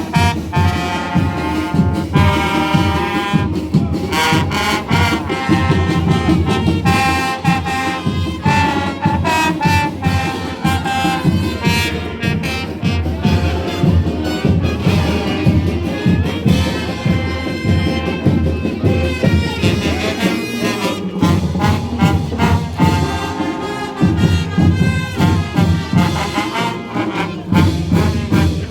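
Marching band playing, with trumpets and trombones carrying the tune over a driving drum beat.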